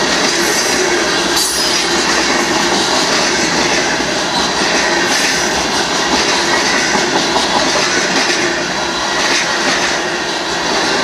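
Union Pacific mixed freight train rolling past at close range: a steady, loud rumble and rattle of freight-car wheels on the rails, with scattered clicks.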